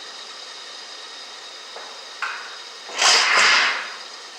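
Steady rain hiss, then about three seconds in a sudden, loud crack of close thunder lasting under a second.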